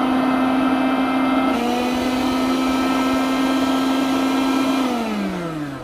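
Miyako Unique mixer grinder's 750-watt motor running at high speed with a steady whine. Near the end it is switched off and the pitch falls as it spins down.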